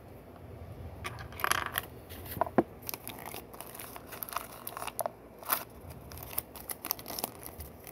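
Plastic Lego pieces being handled and pressed together: irregular sharp clicks and short rustles.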